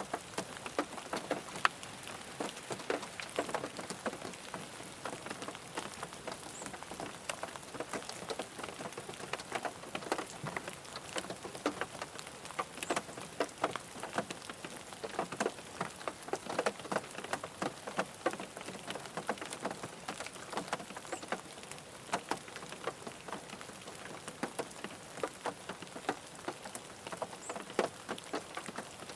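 Steady rain falling on a car, a dense patter of separate raindrops striking the body.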